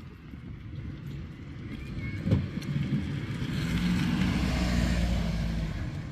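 A motor vehicle passing by, its engine and road noise swelling to a peak and fading away. A sharp knock sounds a little over two seconds in.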